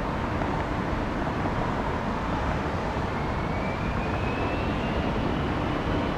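Jet airliner engines running as a steady rumble, with a faint whine rising in pitch from about halfway through.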